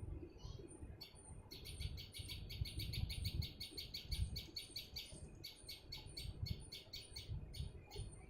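A small songbird singing a fast run of repeated chirps, about eight a second, for several seconds, with scattered single chirps before and after, over a low rumble.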